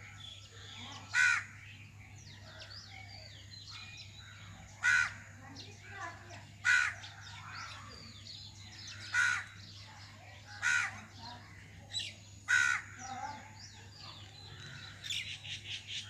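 Birds calling: common mynas chattering and chirping throughout, with a loud, harsh call repeated six times, a second or two apart.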